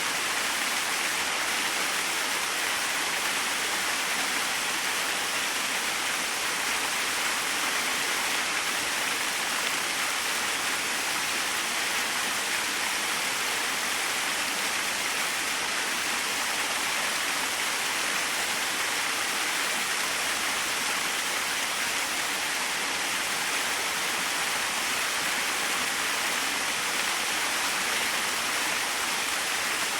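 Small waterfall splashing steadily, a constant even rush of falling water with no breaks.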